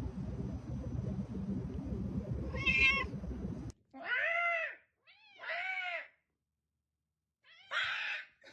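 A cat meowing: a short meow about three seconds in, then two long drawn-out meows, then a rougher, shorter one near the end. A low rumbling noise runs under the first few seconds and cuts off suddenly.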